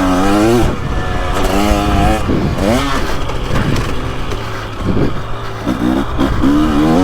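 2023 KTM 300XC's throttle-body-injected two-stroke single-cylinder engine being ridden hard, revving up and down. Its pitch climbs on the gas and falls off when the throttle is shut, several times over, rising again near the end.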